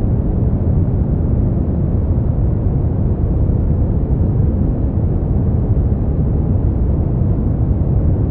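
Steady generated sleep-aid noise, deep and rumbly rather than hissy, unchanging throughout.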